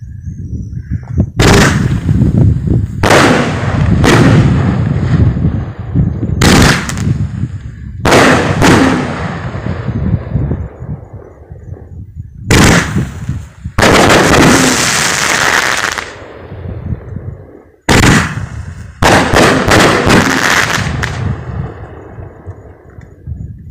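Aerial fireworks going off: about a dozen loud, sharp bangs at uneven intervals, with a rumbling echo between them. Midway there is a two-second stretch of hissing crackle, and a quick run of bangs follows near the end.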